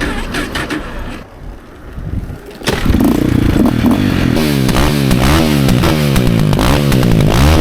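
2005 KTM EXC 450's single-cylinder four-stroke engine comes in suddenly after some light clattering, then is revved in a series of quick throttle blips, its pitch rising and falling about five times.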